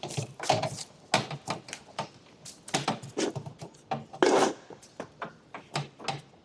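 Irregular knocks, taps and clicks of handwork on a workpiece, with one louder, longer rough scrape or clatter about four seconds in.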